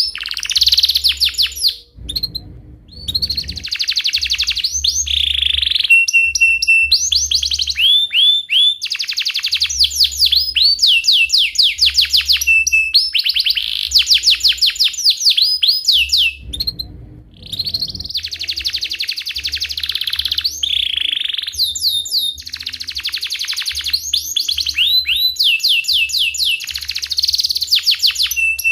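Domestic canary singing without pause: long rolling trills of rapid, repeated chirps, with short breaks about two seconds in and again about halfway through.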